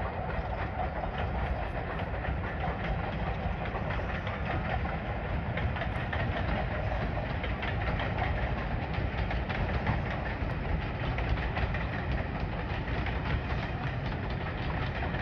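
Class 33 diesel locomotive's Sulzer eight-cylinder engine running with a steady heavy rumble, with some rail noise from the train.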